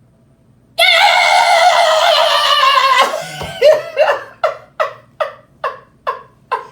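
A person's voice making a sound effect: one long, wavering high note held for about two seconds, then a string of short, even vocal bursts like laughter, about two and a half a second.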